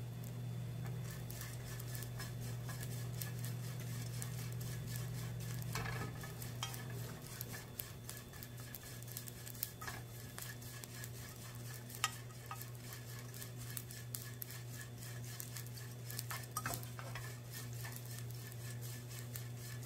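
Dried anchovies frying in hot oil in a frying pan, crackling and sizzling as they are stirred and scraped around with a wooden spatula, with a few sharper scrapes of the spatula on the pan. A steady low hum fades out about seven seconds in.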